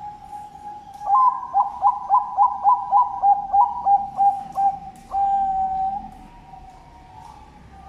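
Bangkok-type zebra dove (perkutut) singing its cooing song. A held opening coo runs into a fast run of about a dozen clipped notes, roughly three a second. About five seconds in, the song closes on one long held note.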